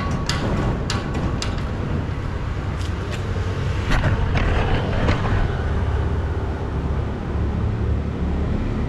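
Steady low rumble of road traffic, with a string of sharp clicks and knocks in the first half.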